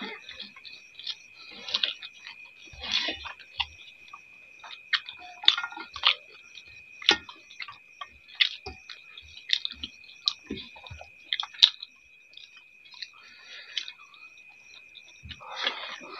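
Two people eating rice by hand: irregular wet chewing and lip-smacking clicks, with fingers squishing and mixing rice on metal plates, over a faint steady high tone.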